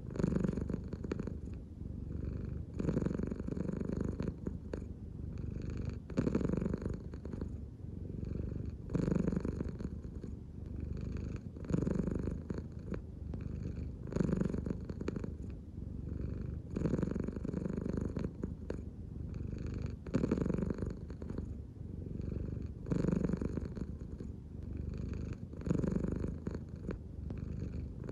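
American Shorthair cat purring continuously, the purr swelling louder with each breath about every two and a half to three seconds.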